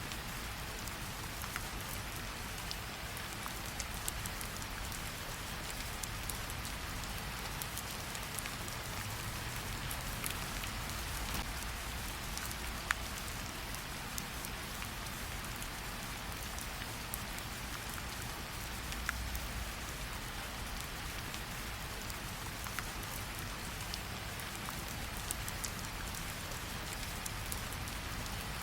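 Steady rain, mixed with a fireplace crackling, with scattered sharp little pops throughout; the loudest pop comes about 13 seconds in.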